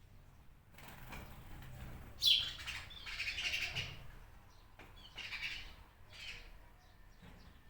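Birds calling. A sharp call comes a little over two seconds in, followed by a run of rapid chattering calls, then shorter calls around five and six seconds.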